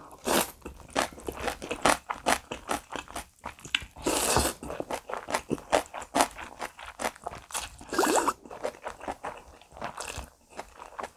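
Close-miked eating of bibim naengmyeon with crisp young-radish (yeolmu) kimchi: a rapid run of crunching and chewing clicks as the kimchi and noodles are bitten. A longer slurp of noodles comes about four seconds in.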